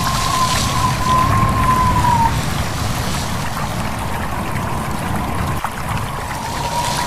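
A stream babbling with wind blowing through leaves: a steady rush of water and wind, with a thin, wavering whistle for the first two seconds and again near the end.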